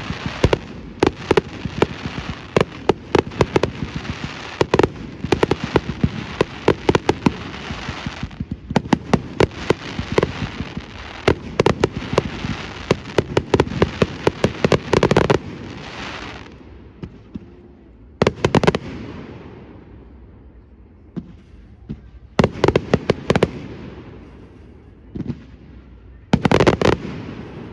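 Fireworks display: dense rapid volleys of sharp bangs and crackles for most of the first half, thinning to separate clusters of bursts with quieter gaps in the second half.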